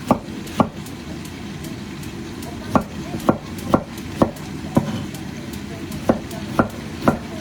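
Kitchen knife chopping fuzzy melon on a cutting board, sharp knocks at about two a second with a pause of a couple of seconds after the first pair, over the steady sizzle of chicken frying in a pan.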